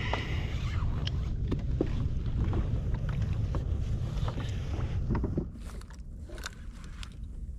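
Wind buffeting the microphone over water lapping against a jet ski's hull, with scattered light clicks; the wind eases about five seconds in.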